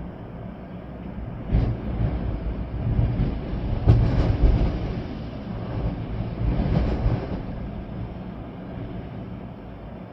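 Storm wind gusting with rain, a low rumbling rush that swells into stronger gusts about a second and a half in, near four seconds, and near seven seconds, then eases off.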